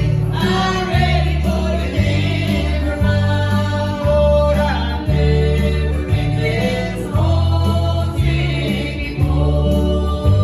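Gospel vocal group singing with instrumental accompaniment, a strong bass line stepping from note to note about once a second under the voices.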